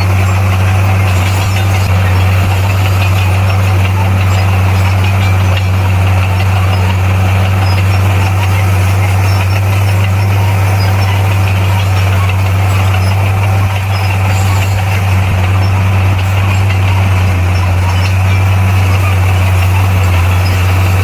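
Bulldozer's diesel engine running steadily at an even speed, a deep unchanging hum.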